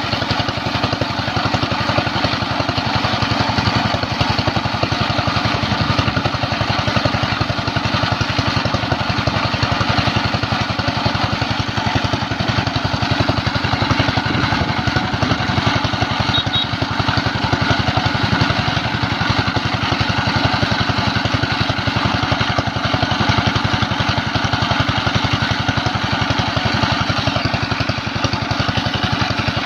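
Small single-cylinder diesel engine of an irrigation water pump running steadily, firing at an even, rapid rate.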